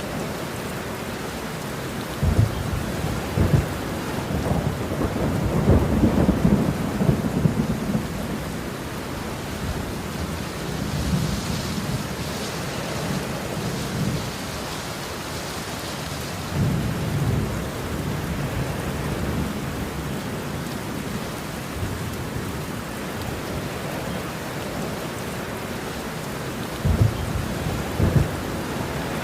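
Steady rain with thunder rumbling in repeated low swells, the loudest stretch a few seconds in and another rumble near the end.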